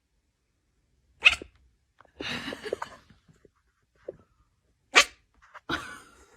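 A dog making short, sharp, sneeze-like sounds: two sudden loud ones, about a second in and again about five seconds in, with softer snuffling sounds between.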